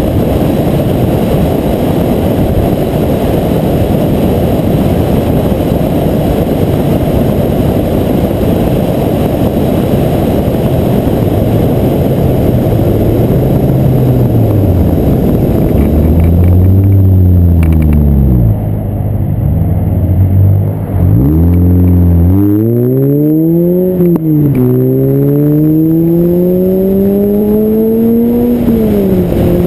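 Heavy wind rumble on a windshield-mounted GoPro HD Hero2's microphone at highway speed. In the second half, the car's engine rises in pitch as it accelerates, with its pitch dropping suddenly twice near the end at gear changes.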